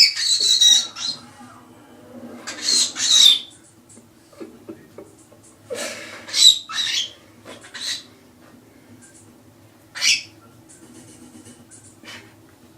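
Pet cockatiels calling: several short, high-pitched screechy chirps with pauses in between.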